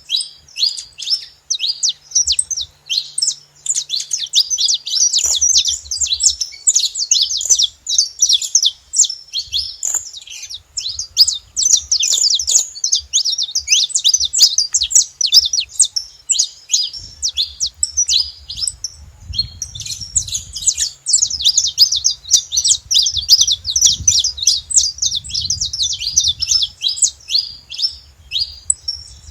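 Saffron finches chirping and singing at a feeding spot, a rapid, nearly unbroken stream of overlapping high chirps that thins briefly a little past halfway, then picks up again.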